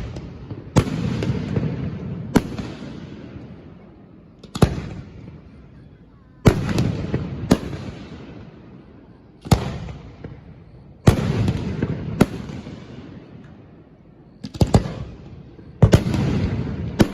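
Large aerial firework shells bursting at close range, about a dozen sharp bangs, some in quick pairs, each followed by a rumbling, echoing tail that fades over a couple of seconds.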